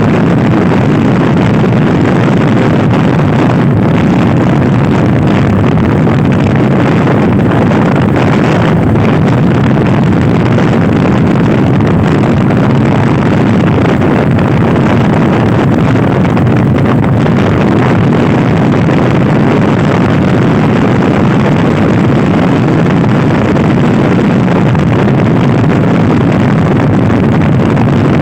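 Loud, steady wind rumble on the microphone of a Honda Scoopy i scooter being ridden at speed, with the scooter's engine and road noise underneath.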